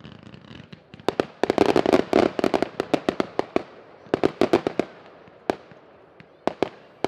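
New Year's fireworks going off: a dense, rapid string of sharp bangs starting about a second in, a second shorter cluster just past the middle, then a few single bangs near the end.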